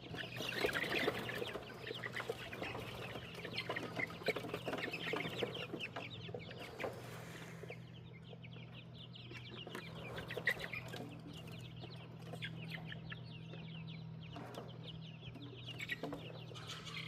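A flock of chickens clucking and chirping in many short, overlapping calls, busiest in the first seven seconds and thinner after that, over a steady low hum.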